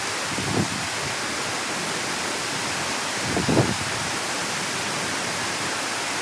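Steady rushing water, with a couple of brief low splashes or knocks about half a second and three and a half seconds in.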